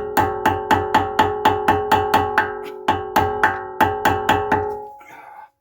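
Rapid hammer blows on a steel part of the car's front hub assembly, about four a second, each with a ringing metallic tone that fades out after the last strike.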